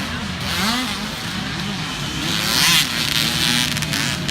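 Several small youth dirt bike engines revving up and down together, the pitch of each rising and falling with the throttle. One comes louder and closer about two and a half seconds in.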